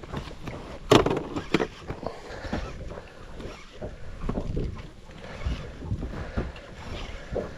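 Wind rumbling on the microphone, with irregular knocks and bumps in a small fishing boat; the loudest knock comes about a second in.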